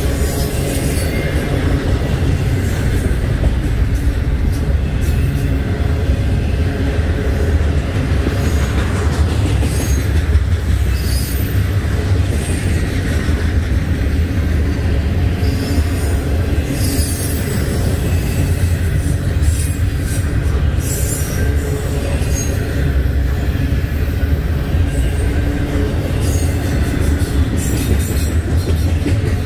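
Double-stack intermodal freight train cars rolling past in a steady low rumble, with brief high-pitched wheel squeals now and then.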